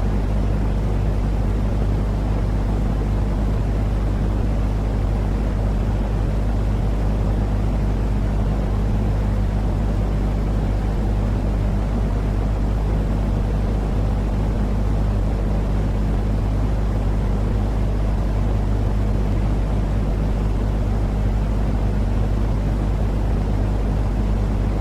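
Steady, unchanging sleep noise for calming a baby: an even rumbling hiss over a deep constant hum.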